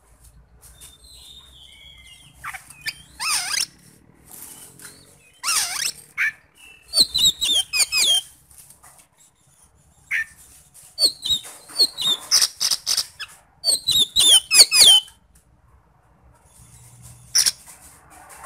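Oriental magpie-robin (kacer) singing: phrases of sharp, rapidly sweeping high notes delivered in quick runs, with rough, harsh notes mixed in and short pauses between phrases.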